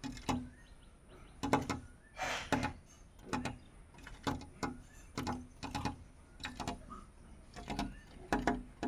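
A small bird pecking and fluttering against a dark mirror glass, attacking its own reflection: a run of irregular sharp taps on the glass, some in quick pairs, with a faint chirp or two between them.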